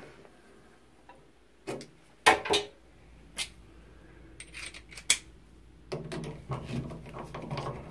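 Metal clinks and knocks from handling tools and shower valve parts: a handful of separate sharp knocks, the loudest about two seconds in. A low steady hum comes in near the end.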